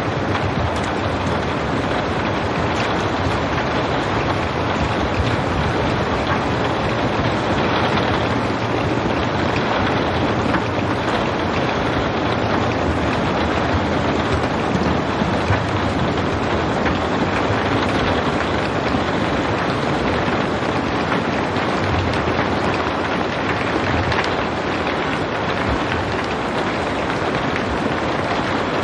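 Steady rain falling, an even, dense hiss with no thunder.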